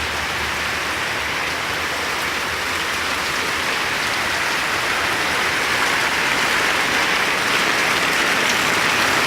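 Steady rain falling as an even, dense patter, growing slightly louder toward the end.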